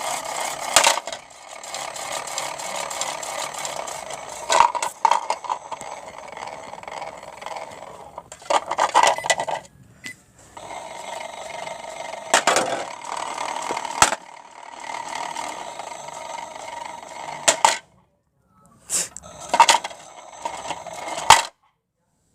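Toy washing machine running with bricks in its drum: a steady motor hum with repeated sharp knocks and scraping as the bricks are thrown about. It cuts out briefly about ten seconds in and again twice near the end, restarting each time.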